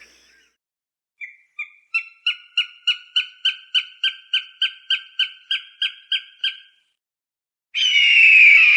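Falcon calling: a rapid series of about eighteen short, sharp, evenly spaced calls, about three a second. Near the end it gives one long harsh scream that falls in pitch.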